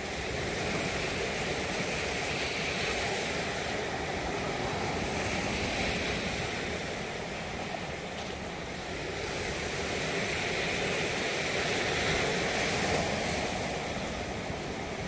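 Sea surf washing onto a beach, with wind rumbling on the microphone. The noise swells and eases, dipping briefly about halfway through.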